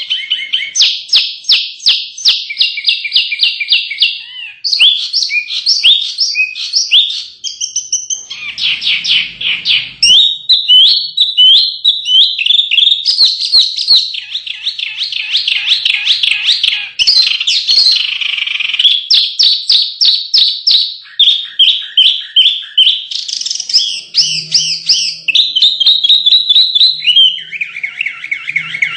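Small songbirds singing non-stop in rapid, high-pitched trills and chirps, one fast phrase running into the next every few seconds.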